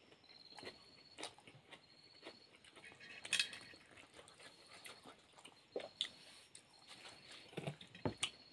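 Faint eating sounds: chewing, mouth smacks and soft clicks of food being eaten by hand, with a louder smack about three seconds in. A short, high, chirping tone repeats several times in the background.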